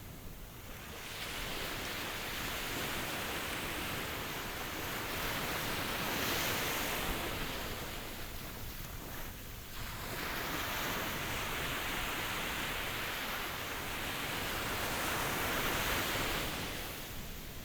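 Ocean surf: waves breaking and washing in as a continuous hiss that swells and falls back. It surges twice, about six seconds in and again around sixteen seconds, easing between the surges.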